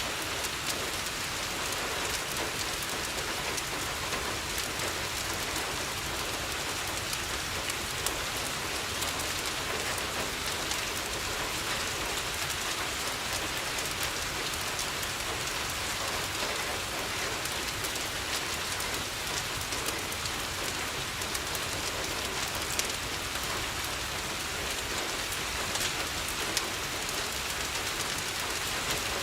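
Steady, heavy rain on a window, with a few sharp crackles from a fireplace scattered through it.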